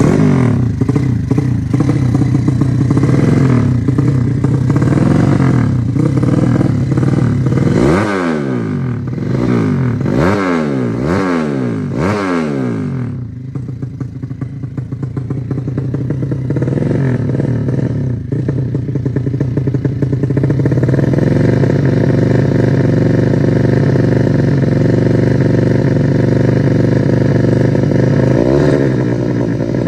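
Single-cylinder four-stroke drag-bike engine, a Yamaha Jupiter–Honda Supra hybrid, running loudly on its first tuning. The throttle is blipped four times in quick succession about eight seconds in, and then the engine settles to a steady fast idle.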